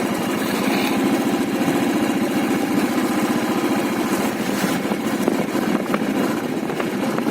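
Motorcycle engine running steadily, a fast even chug with no change in speed.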